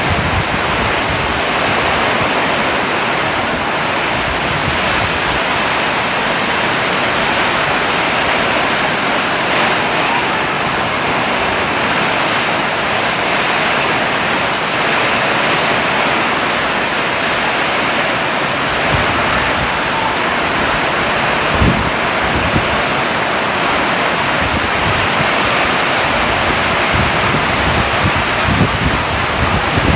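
Heavy rain pouring down in a steady, loud rush. A few low thumps of wind buffet the microphone in the second half.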